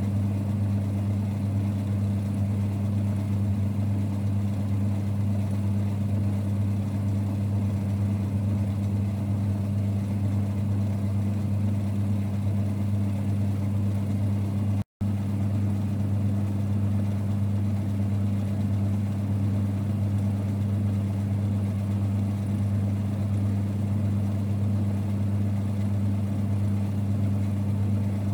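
1946 Boxford lathe running with a steady, low rumbling hum that holds unchanged, broken only by a split-second dropout about halfway through.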